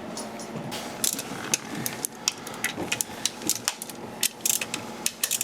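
Hand tools clicking: sharp, irregular metallic clicks, several a second, as a socket and ratchet are handled.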